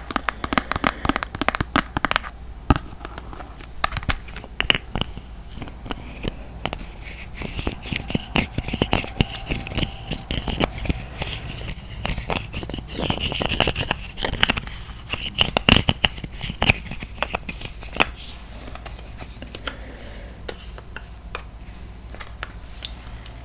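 Makeup products tapped, scratched and handled close to the microphone: a dense, irregular run of small clicks, taps and crinkles.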